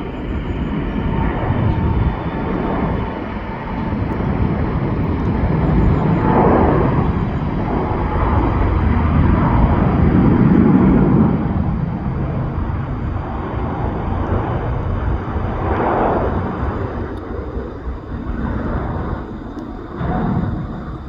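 Jet airliner passing the runway, its engine roar building to a peak about ten seconds in and then fading.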